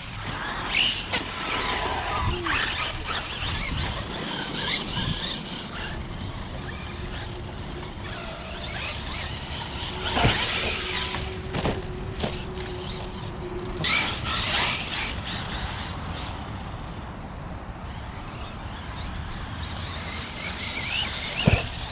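Electric RC monster trucks running with brushless motors: short high-pitched squeals and whines, a steady hum for several seconds in the middle, a sharp thump about ten seconds in and another near the end.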